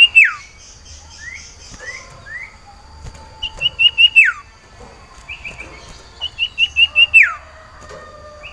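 An iora (cipoh/sirtu) singing three loud phrases, each a fast run of about five short notes that ends in a long downward-sliding whistle, with softer short rising notes in between. It is a caged male in breeding condition calling for a mate.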